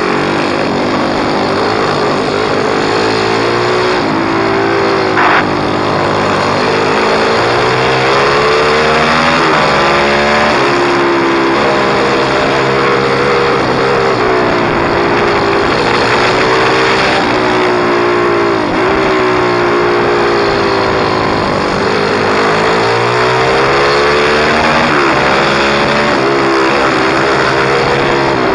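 Pit bike engine running hard as it is ridden, its pitch climbing and dropping again and again with the throttle, over a steady rush of noise. There is a brief click about five seconds in.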